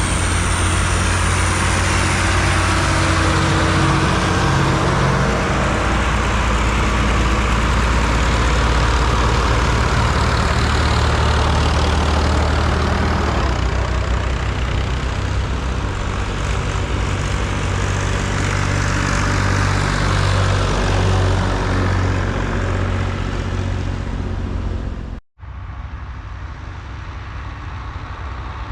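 Vintage farm tractors' engines running as they drive along the road, with a heavy low engine note over road noise. The sound cuts off abruptly about 25 seconds in and comes back quieter.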